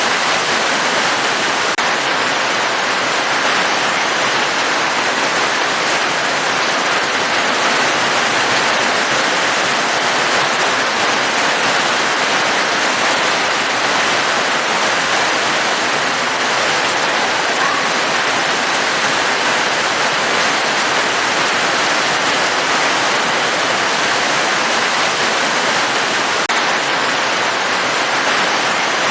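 Steady, unbroken rain noise, an even hiss with no separate drops or thunder.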